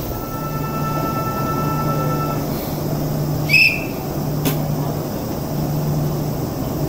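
Enoden electric train at the station, with a steady low hum throughout. A steady high-pitched tone sounds for about two seconds near the start, a short, sharp high chirp comes about halfway through, and a click follows a second later.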